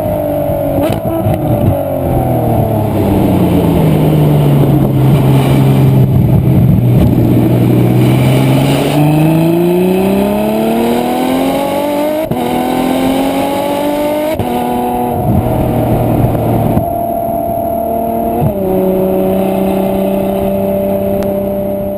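Ferrari F12 Berlinetta's V12 engine and exhaust: the revs fall over the first few seconds, hold low, then climb again with quick gear changes about twelve and fourteen seconds in, before settling to a steady note for the last several seconds.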